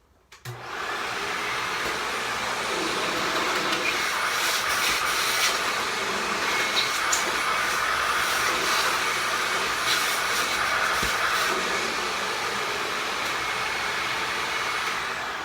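Hoover WindTunnel upright vacuum cleaner's motor switched on, running with a steady rush of air and a faint high whine, then switched off near the end and spinning down.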